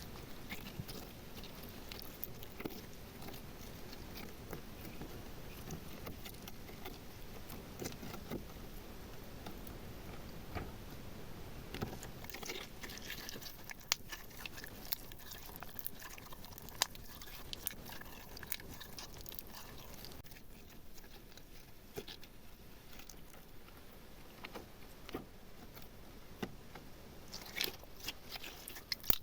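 Slime being pressed and mixed by hand: sticky squishing with many small scattered clicks and pops.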